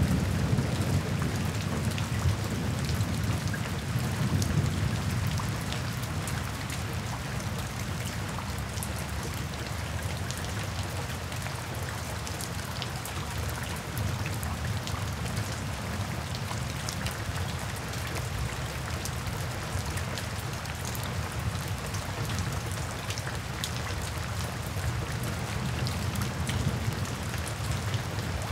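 Steady rain, with many separate drops ticking through an even hiss. A low rumble, loudest at the start, dies away over the first five seconds or so.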